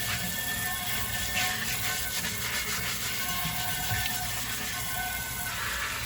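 Dishes and utensils clinking and being handled at a sink, with a few sharp clatters, over soft background music.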